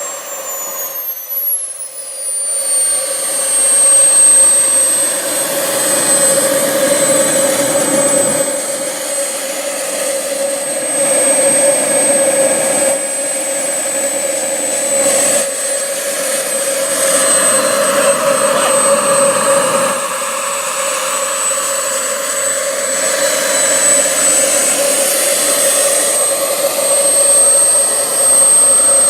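Behotec 220 model jet turbine in a Yellow Aircraft F-18 RC jet, running with a high steady whine. In the first few seconds the whine drops in pitch, then holds steady.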